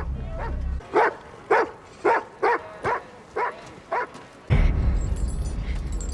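A dog barking in short yelps, about seven or eight in three seconds. A deep low rumble comes in near the end.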